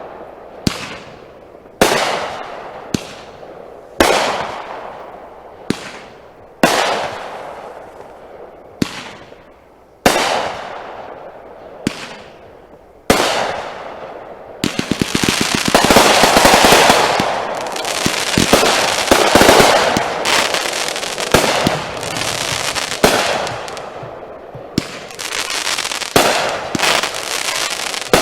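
Consumer aerial fireworks going off: single loud bangs about every one to two seconds, each trailing away. About halfway through, a quick string of pops leads into a dense, continuous barrage of bangs and crackling.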